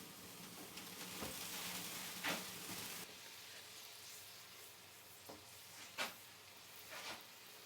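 Food sizzling in a pan on a small propane camp stove, with a few sharp clicks or knocks, a loud one about two seconds in and two more near the end.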